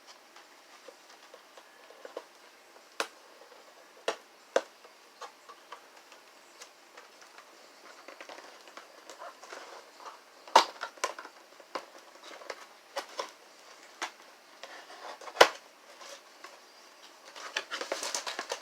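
Cardboard toy box being opened and handled: scattered sharp clicks and taps over light rustling, then a burst of crinkling near the end as the plastic parts bags come out.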